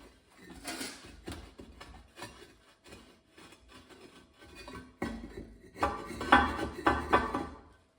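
Knocking and scraping as soft insulating firebricks are worked and fitted into a steel forge box, with a busier run of knocks and scrapes in the second half that stops abruptly near the end.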